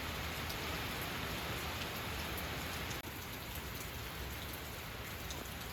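Steady heavy rain falling, with scattered faint drop ticks; it eases slightly about three seconds in.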